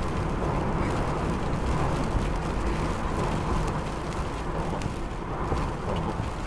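Steady rumbling noise of a vehicle on the move, heard from inside the cabin, with high wind buffeting the car.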